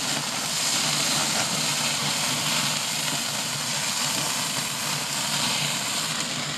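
Hamburger patties sizzling on a grill: a steady hiss with a low steady hum underneath.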